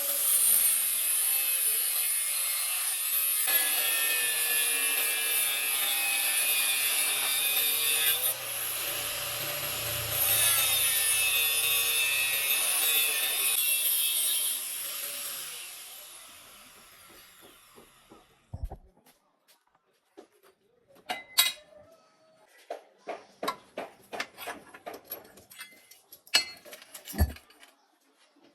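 A power tool grinding or sanding for about fifteen seconds, then winding down, followed by scattered light clicks and taps.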